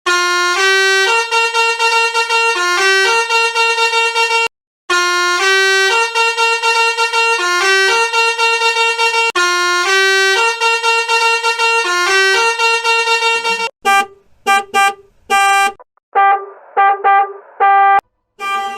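Musical car horn playing a short tune of stepped horn notes, the same phrase repeated three times, then a run of short separate honks.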